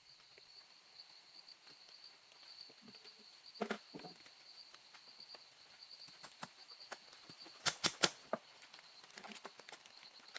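Insects trilling steadily as a high, pulsing background, with scattered light clicks and a few sharper knocks, about four and eight seconds in.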